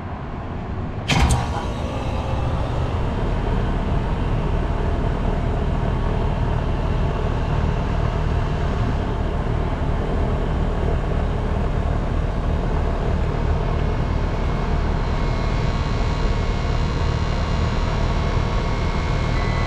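A sharp click, then the old HVAC unit starts up and runs with a steady low mechanical hum.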